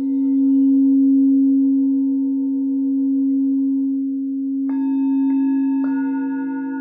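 Singing bowls: one low bowl rings steadily with slow swells in loudness. About two-thirds of the way in, other bowls are struck three times in quick succession, adding higher tones that ring on over the low one.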